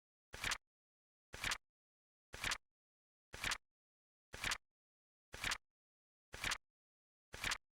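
Countdown timer's clock-tick sound effect: a short, sharp tick once every second, eight in a row, with silence between.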